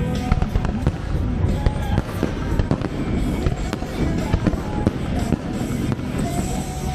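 Fireworks going off in many quick, irregular bangs over music played through loudspeakers.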